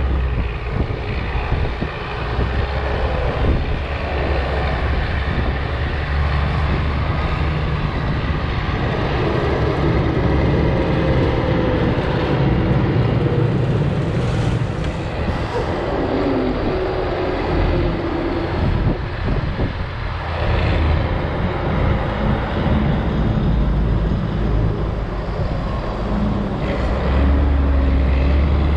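Heavy diesel machinery working a corn silage pile: tractor and tracked snowcat engines running continuously, with engine pitch rising and falling as they take load and manoeuvre.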